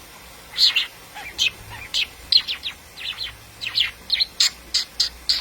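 A pet bird chirping: a quick series of short, high chirps, about three a second, some sliding down in pitch, starting about half a second in.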